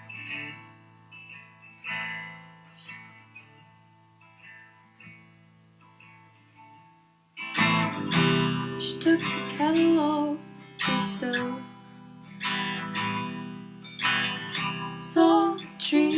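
Acoustic guitar music, softly plucked at first, then jumping to louder, fuller playing about seven and a half seconds in.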